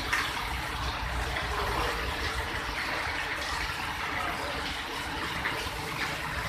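Steady rain with water running and trickling: a continuous even hiss with a low rumble underneath.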